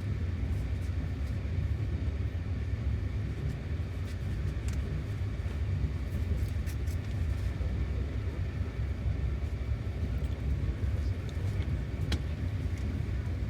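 Passenger train running, heard from inside an open-plan sleeper carriage: a steady low rumble with a few light clicks, the sharpest about twelve seconds in.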